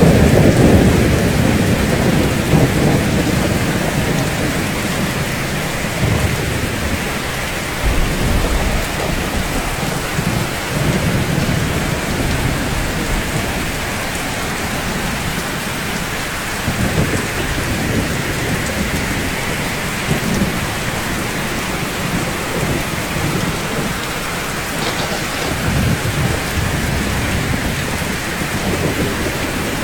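Steady rain with thunder rumbling: a low roll fades away over the first few seconds, and shorter low rumbles swell up several more times over the steady patter.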